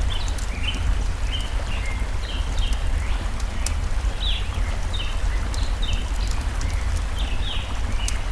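Birds singing in short, repeated chirps over a crackling campfire with sharp pops, and a steady low rumble of flowing stream water beneath.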